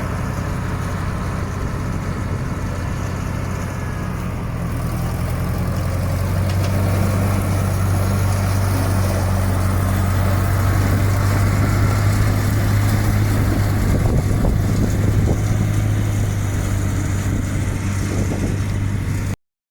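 The 2-litre Ford petrol engine fitted to a Massey Ferguson 35 tractor, running steadily at low speed and getting a little louder about five seconds in.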